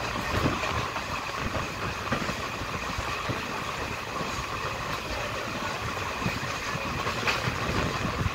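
Train running on the track: a steady rumble and rattle of wheels on rail, with a sharp click near the end.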